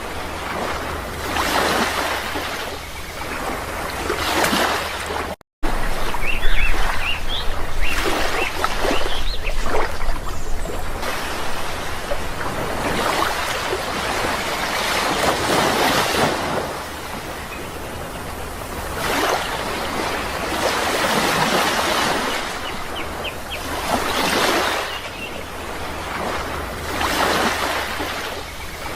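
Sea waves washing on a shore, the surf swelling and falling back every few seconds. The sound cuts out for a split second about five seconds in, and a few short high chirps sound over the surf soon after.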